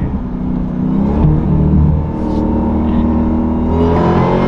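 Supercharged 6.2-litre V8 of a 2023 Dodge Durango SRT Hellcat running through a muffler-deleted exhaust, heard from inside the moving vehicle. The engine note drops about a second in and rises again near the end, as the driver tries a downshift and a throttle lift to bring out exhaust burbles.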